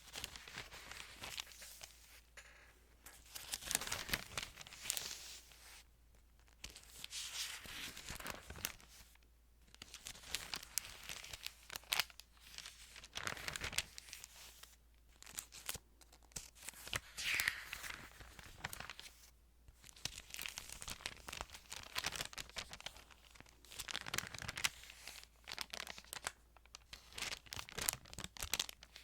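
Thin Bible pages being handled and turned: paper rustling and crinkling, close up, in bursts of a second or a few seconds with short pauses between.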